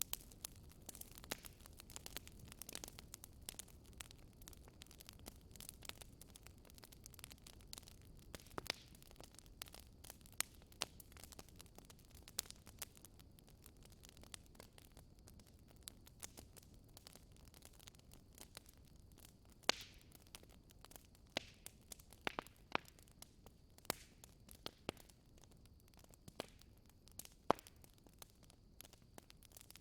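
Fireplace fire crackling softly: irregular sharp pops and snaps over a faint low hiss, with a few louder pops in the second half.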